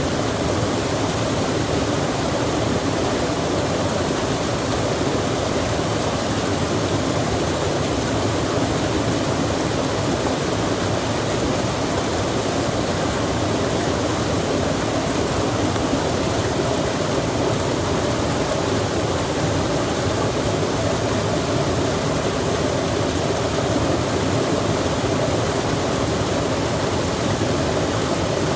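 Flowing water rushing steadily, an even noise with no breaks.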